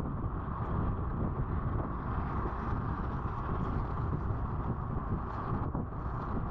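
Steady wind buffeting the microphone on a moving Honda Activa scooter, over the scooter's running and road noise.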